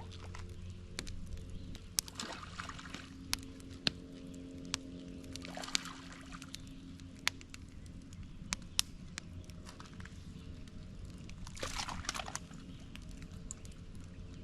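Lake water lapping and sloshing, with a few short splashes and scattered sharp clicks over a steady low background.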